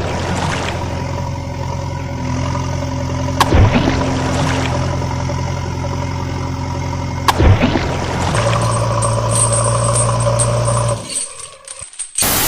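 Heavy vehicle engine running steadily, broken by two sharp cracks, about three and a half and seven and a half seconds in. The engine sound drops away near the end.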